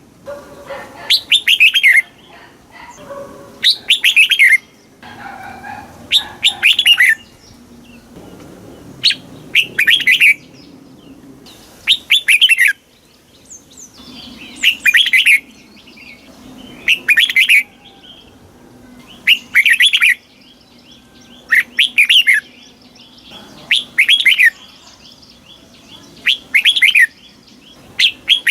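Red-whiskered bulbul singing: short, bright warbled phrases repeated about every two seconds, with quieter lower sounds in the gaps between them.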